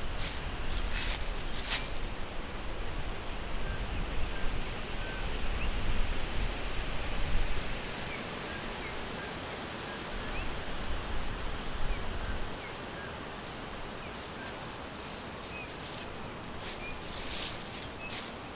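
Forest ambience: birds give scattered faint, short chirps over a steady rushing hiss, with bursts of high raspy calls near the start and again near the end. A low rumble under the hiss fades out about two-thirds of the way in.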